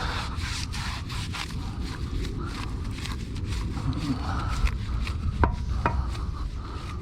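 Brush scrubbing a car wheel coated in wheel cleaner: repeated rubbing strokes, with a few sharp knocks in the second half.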